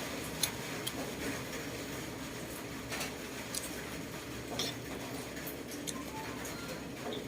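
Someone eating close to the microphone: chewing, with scattered small wet clicks and soft taps.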